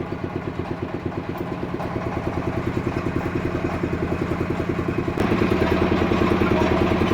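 Sawmill engine running with a fast, regular pulse, stepping up louder and fuller about five seconds in.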